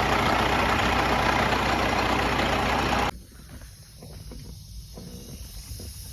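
Detroit Series 60 12.7-litre diesel of a Freightliner Classic XL running loud. About three seconds in, the sound cuts off abruptly to a much quieter, low diesel rumble.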